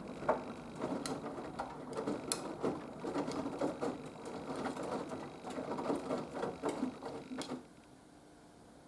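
Haier HW120 front-loading washing machine drum turning wet laundry in a wash cycle, making irregular knocks and swishes. The drum stops about three-quarters of the way through, leaving only a low hum.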